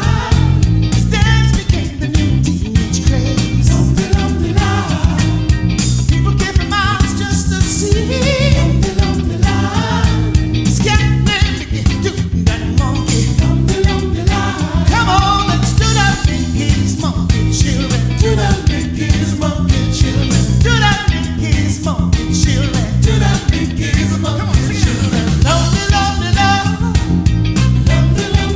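Live band playing an upbeat soul number with a steady beat of drums and bass, melodic lines over it.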